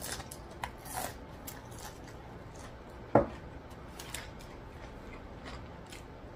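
Close-miked chewing of a fried onion ring: scattered soft crunches and wet mouth clicks, with one louder short click about three seconds in.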